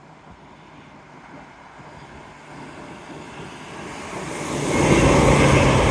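A nine-car Class 345 electric train approaching at speed. Its sound builds steadily from about two seconds in and becomes loud near the end, with a steady low hum underneath.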